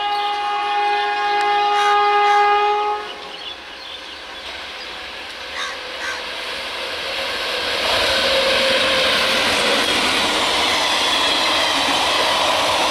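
Indian Railways WAG-7 electric locomotive sounding its horn in one long blast that ends about three seconds in. Then the steady rumble of the passenger coaches running past on the rails, growing louder about eight seconds in.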